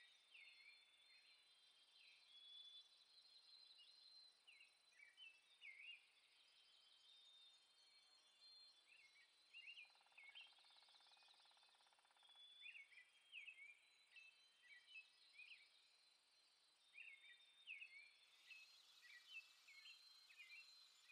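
Faint outdoor birdsong: many short chirping notes repeating throughout, with a brief buzz about ten seconds in.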